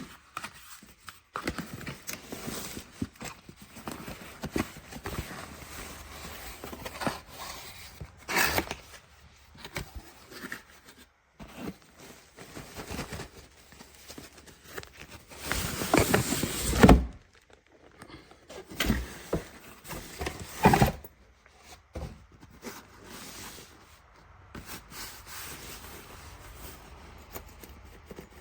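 Handling noises: scattered knocks, scrapes and rustling, with a louder rustling stretch about halfway through and a couple of sharper knocks soon after.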